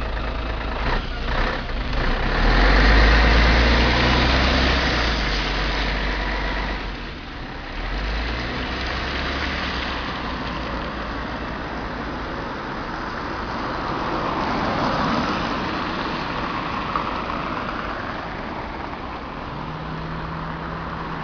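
Scania CN113ALB articulated city bus engine pulling away, loudest a few seconds in. The sound dips briefly about seven seconds in, as at a gear change, then runs on steadily. A low steady hum joins near the end.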